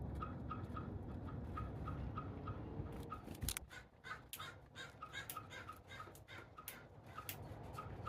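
A bird calling in a steady series of short notes, about three or four a second, with sharp clicks or taps in the second half.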